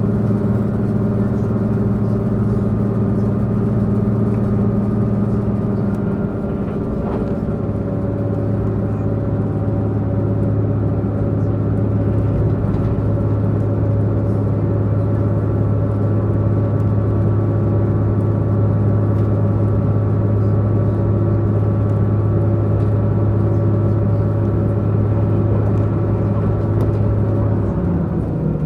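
Diesel multiple unit's underfloor diesel engine running under power, a steady low drone with a clear pitched note, heard from inside the carriage. The note shifts slightly a few seconds in, and near the end the low tone drops away as the engine note changes.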